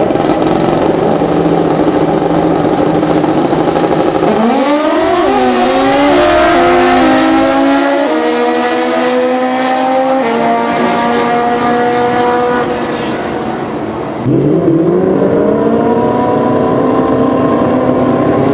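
Pro Street drag-racing motorcycle engine under full throttle: after a steady drone, about four seconds in the note climbs sharply and then keeps rising in steps, dropping back at each upshift. Near the end a second engine note rises from low.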